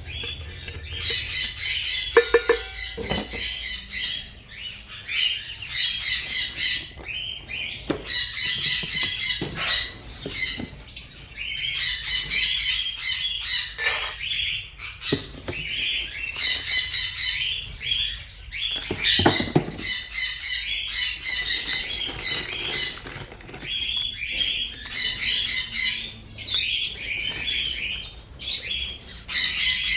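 Parrots squawking and screeching in repeated bouts of rapid, harsh calls, one after another with short pauses between.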